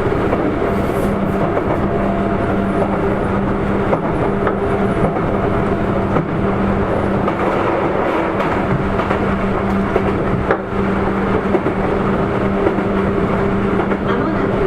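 Sotetsu 8000 series electric train running at steady speed, heard from inside the passenger car: continuous rolling noise with a steady low hum and a few sharp wheel clicks over rail joints.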